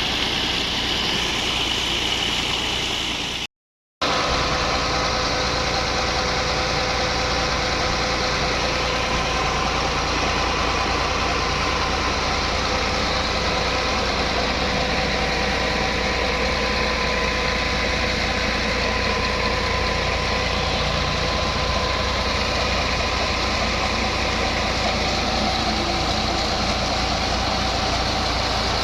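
New Holland tractor engine running steadily at a constant speed, driving a water-well drilling rig through its PTO, with a steady mechanical whine over the engine's rumble. The sound cuts out completely for about half a second, about three and a half seconds in, then resumes unchanged.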